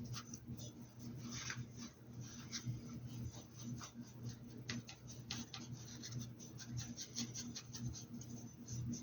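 Paintbrush strokes scratching and rubbing on a hat's surface: many short, irregular strokes, over a low steady hum.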